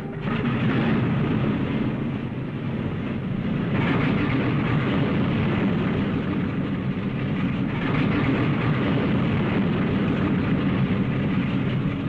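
Piston engines of a propeller airliner running, a dense steady drone that swells slightly a couple of times.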